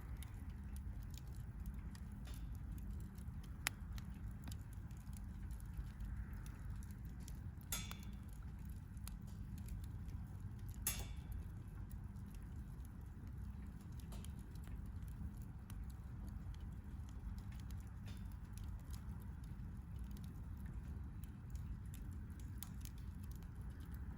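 Wood campfire crackling, with scattered small snaps and a few sharper pops, over a steady low rumble.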